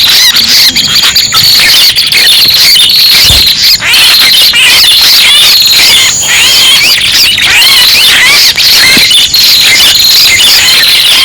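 Bird-trapping lure recording of prenjak kepala merah calls: a loud, continuous stream of rapid high chirps and trills over a steady high-pitched buzz.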